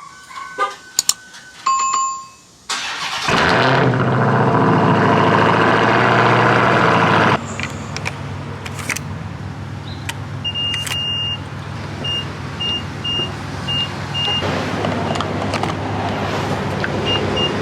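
Car engine cold-started: after a few short electronic chimes, it catches about three seconds in and runs loud at a fast cold idle. About seven seconds in it drops to a steadier, quieter idle, while a dashboard beep repeats about twice a second for a few seconds.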